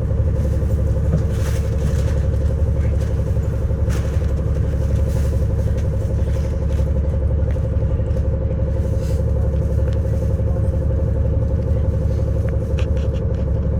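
City bus running steadily, heard from inside the passenger cabin: a constant low engine hum with a steady drone, and a few faint clicks and rattles.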